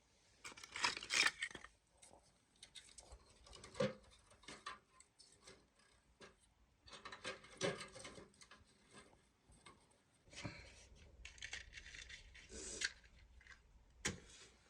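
Irregular clinks, taps and scrapes of utensils and cookware being handled during food preparation, with a louder clatter about a second in and a sharp knock near the end.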